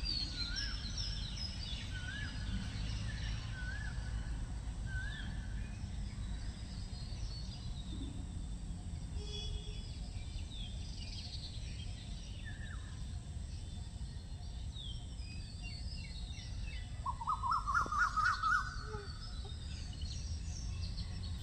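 Birds chirping and calling over a steady low background rumble, with a louder rapid series of notes about three-quarters of the way through.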